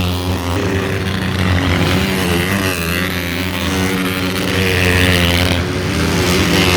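Several dirt bike engines racing on the track, loud, their notes rising and falling as the riders rev.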